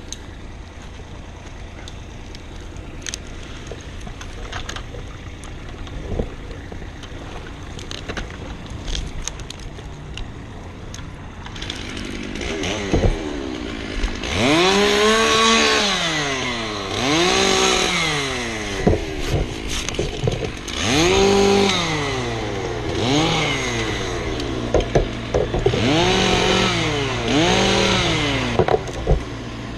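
Gas chainsaw revved repeatedly, its pitch rising and falling in cycles about two seconds apart, during tree cutting. Before that, a steady low engine hum for the first ten seconds or so.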